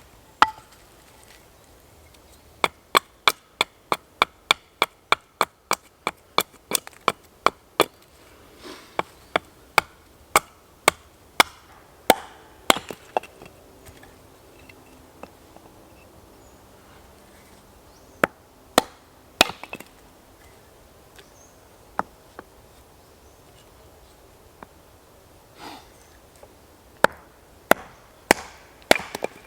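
Sharp chops of an axe into wood: a quick run of about two to three strikes a second in the first several seconds, slowing to scattered single strikes, with a few more close together near the end.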